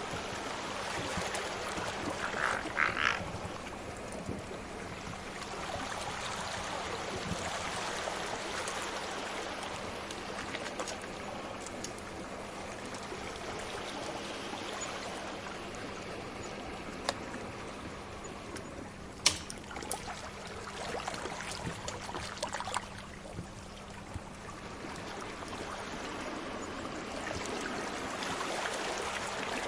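Sea waves washing in a steady swell and ease, with a wood fire crackling over them: a short louder flurry of crackles about three seconds in, and a few sharp single pops later on.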